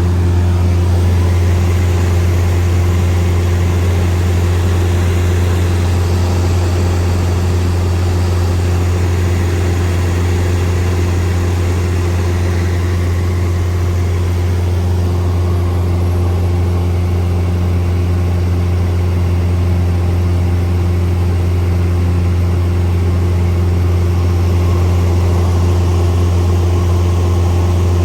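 Cessna 172 Skyhawk's piston engine and propeller droning steadily at approach power, a deep even hum with no change in pitch.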